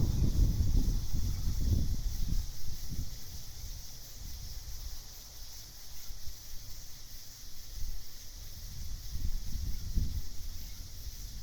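Night ambience: a steady, high-pitched chorus of insects, with low, gusty wind rumble that rises in the first few seconds, eases, and picks up again near the end.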